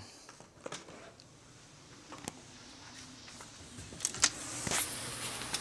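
A few sharp clicks, then louder knocks about four seconds in as a door is opened. A steady rush of outdoor wind noise follows, rising toward the end.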